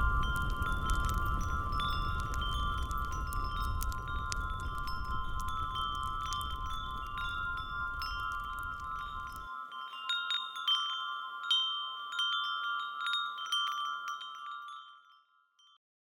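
Clarines (Alpine cowbells) clanking irregularly and ringing on together, many strikes overlapping. A low background rumble stops abruptly about halfway through, and the bells fade out near the end.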